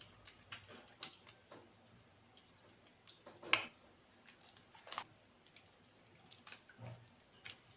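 Soap-lathered hands being rubbed and scrubbed together, giving faint, irregular wet clicks, with two louder ones about three and a half and five seconds in.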